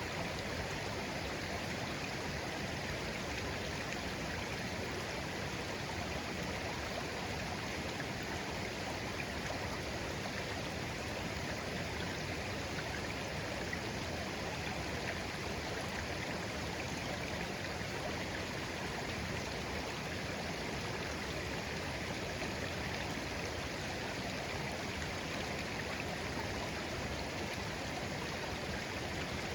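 Clear shallow stream flowing gently over stones, a steady babbling rush of water with no pauses or changes.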